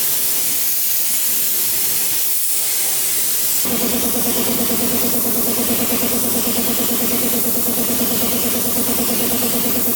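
Steady spraying hiss. About four seconds in, a motor starts and keeps running under it with a steady hum.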